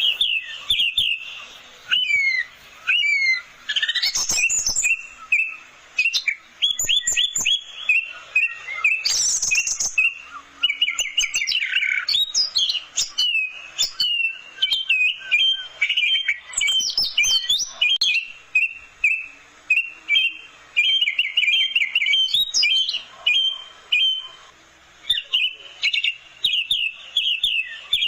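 Orange-headed thrush singing a fast, almost unbroken run of varied sweeping whistles and chirps, with a couple of harsher rasping notes about four and nine seconds in.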